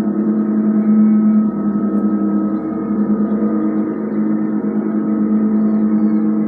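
Sound-bath instruments ringing in a sustained drone: a steady low tone with many overtones above it, its loudness swelling and easing gently.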